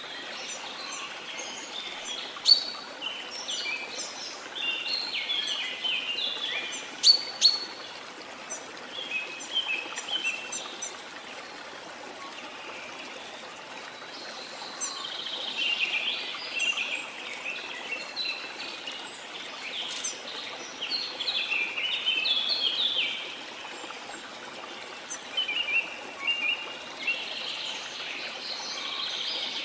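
Tropical forest birds chirping and singing in quick, busy runs of notes over the steady rush of a waterfall. The birdsong comes in spells, with brief lulls about a third and three quarters of the way through.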